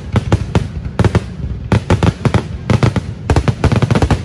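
Fireworks going off in a rapid, irregular barrage of sharp bangs, several a second, stopping abruptly at the very end.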